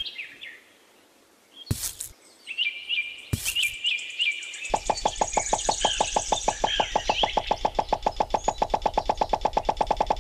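Birds chirping, with two sharp knocks in the first half. From about halfway, a fast, even pulsing of about ten beats a second takes over as the loudest sound.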